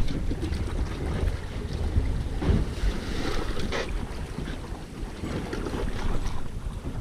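Wind buffeting the microphone on an open boat at sea, a gusting low rumble over water sloshing, with a brief rush of hiss about three seconds in.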